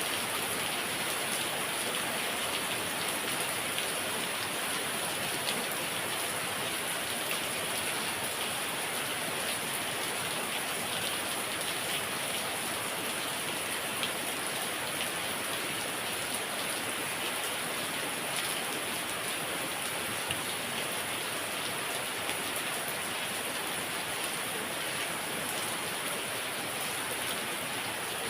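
Heavy rain falling steadily, a dense even hiss with scattered individual drops ticking on surfaces.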